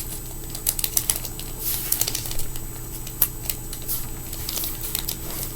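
Light, irregular clicks and taps of tiny fingerboard parts being handled and fitted during assembly.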